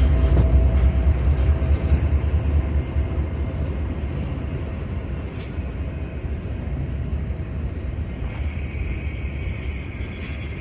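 Freight train rolling past, a steady low rumble of wheels on rail that gradually fades.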